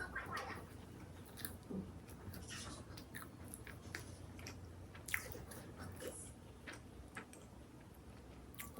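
A person eating: biting and chewing food, with irregular small crunches and mouth clicks.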